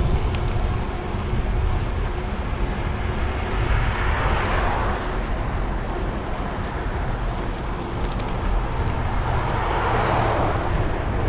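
Wind rumbling on the microphone during a road ride on a mountain bike, with traffic swelling past twice, about four seconds in and again near ten seconds.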